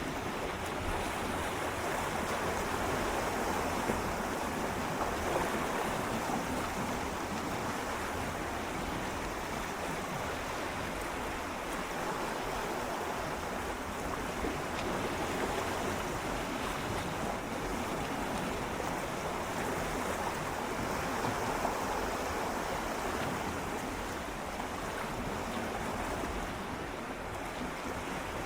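Gentle sea waves swirling and lapping against shoreline rocks, a continuous wash that swells and eases slowly, with light wind on the microphone.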